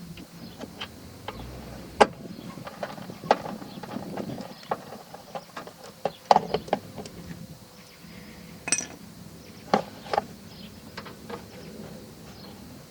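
Irregular clicks and knocks of hand tools and fasteners as screws are taken out of a car's wheel-well liner, with a short metallic ring about nine seconds in.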